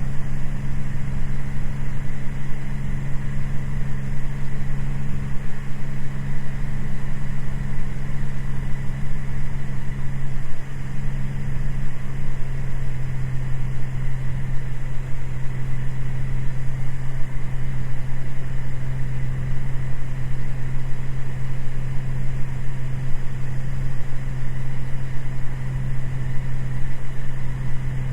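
Cessna 206 Stationair's single piston engine and propeller droning steadily in flight, heard from inside the cockpit, with a strong low hum and a faint steady high tone.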